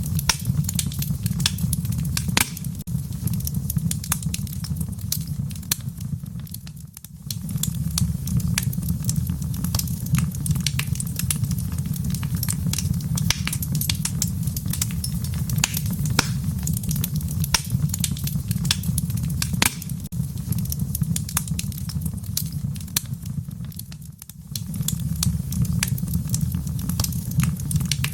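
Wood fire crackling in a fireplace: a constant scatter of sharp pops and snaps over a steady low rumble of flame. The rumble dips away for a moment twice, then returns.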